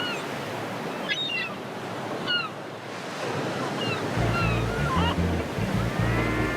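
Sea surf washing steadily, with short high chirping cries over it. Low, sustained music notes come in about four seconds in.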